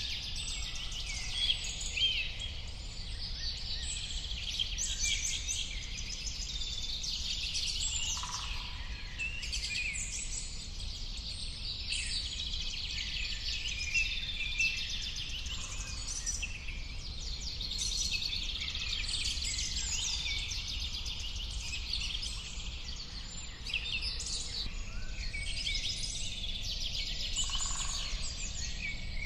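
Many birds chirping and singing at once, a dense overlapping chorus of short high calls and trills, over a steady low rumble.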